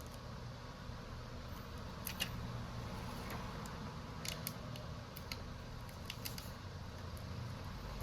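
Scattered light clicks and taps of small repair tools and phone parts being handled, over a steady low hum.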